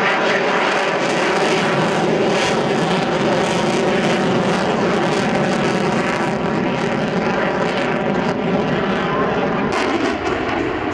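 Loud, steady jet noise from a Navy F/A-18 Super Hornet's two General Electric F414 engines as the jet flies a slow, high nose-up pass, with a whine running through it.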